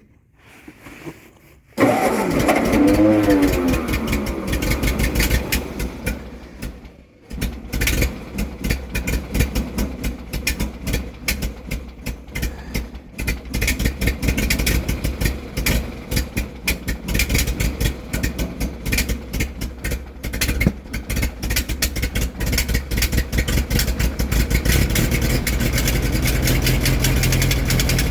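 Ford 8N tractor's four-cylinder flathead engine cold-starting on choke at -17°F: the starter cranks it from about two seconds in with a whine, pauses briefly, then it catches and runs roughly and unevenly before settling into a steadier idle near the end.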